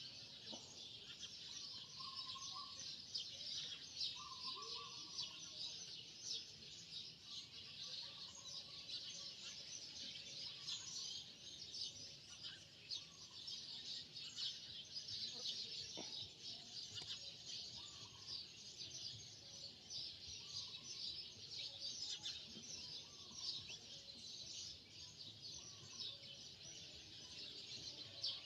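Faint, steady chorus of high rapid chirping, with short lower chirps now and then and an occasional faint knock.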